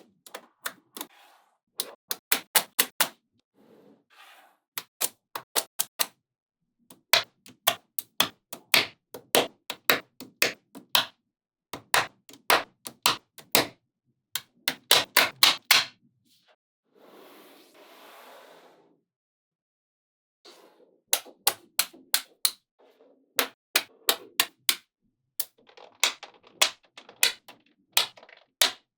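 Small magnetic balls snapping together with sharp clicks, in quick runs of several clicks a second separated by short pauses. A little past the middle, a softer rattle of balls lasts about two seconds.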